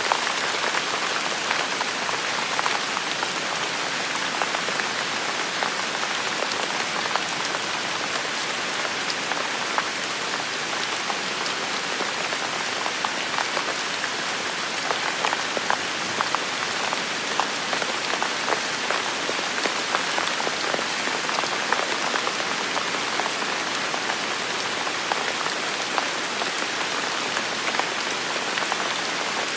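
Heavy steady rain falling, a dense even hiss with many individual drops pattering close by.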